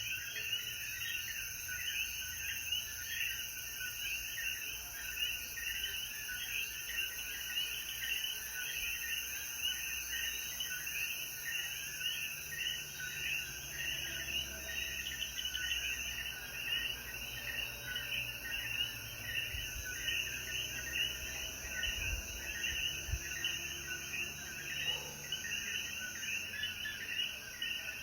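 Chorus of Puerto Rican coquí frogs calling, many overlapping calls repeating steadily, with a steady high hiss above them.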